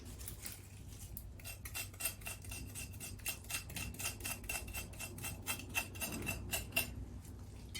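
A metal kitchen utensil clicking in a regular run, about four small metallic clicks a second, each with a faint ring. The run starts a little over a second in and stops shortly before the end.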